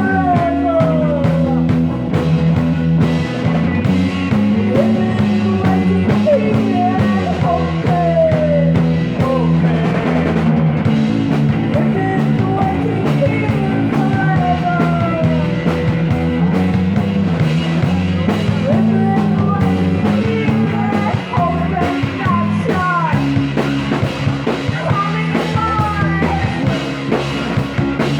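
A rock band playing live in a psychedelic rock style: sustained low bass notes under lead lines that bend and slide in pitch.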